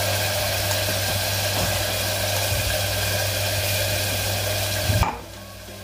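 Tomato-and-coconut masala paste sizzling in hot oil in an aluminium pressure cooker, a steady hiss over a low hum. A single knock comes about five seconds in, and the sizzle drops away abruptly right after it.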